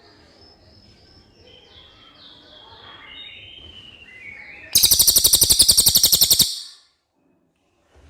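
Cililin bird singing a run of quick high chirping notes, followed about four and a half seconds in by a much louder, harsh rapid rattle of about eight pulses a second that lasts under two seconds and then cuts off into dead silence.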